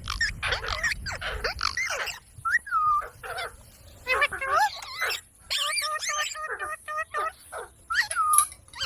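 Parrot calling in a quick series of short squawks and chirps, each bending up and down in pitch, with brief pauses between groups.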